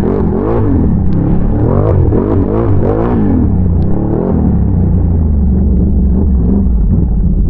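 ATV engine revved up and down several times in quick succession, then settling to a steadier, lower run for the rest of the time.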